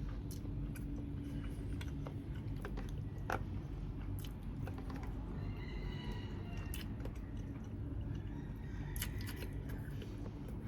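A person chewing grilled chicken close to the microphone: scattered wet clicks and smacks over a steady low background hum.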